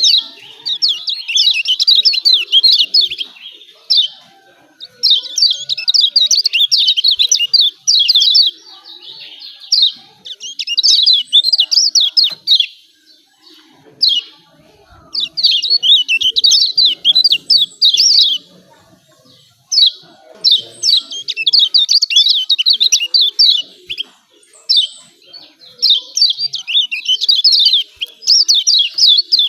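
Kecial kuning (Lombok white-eye) giving its rapid 'ciak ciak' chattering song, high-pitched notes packed tightly together in bouts of a few seconds with short pauses between, about six bouts in all.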